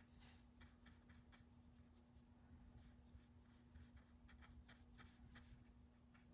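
Faint, soft scratchy strokes of a paintbrush working paint on paper, a few each second, over a steady low electrical hum.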